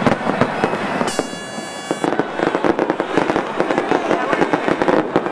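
Fireworks display: rapid, overlapping bangs and crackling shell bursts in quick succession, with a steady high tone for about a second near the start.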